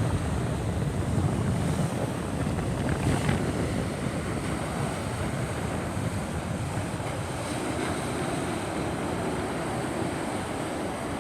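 Rushing floodwater, a steady noise with no breaks, with wind blowing on the microphone.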